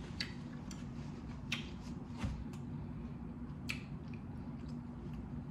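Close-miked chewing of boiled blue crab: a scattering of short, soft wet mouth clicks and smacks over a steady low hum.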